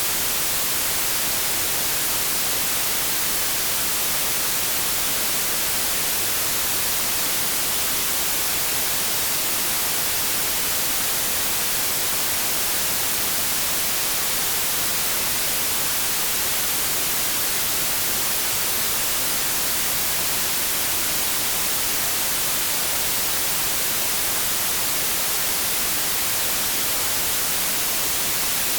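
Continuous white noise: a steady, even hiss that never changes, brightest in the high frequencies.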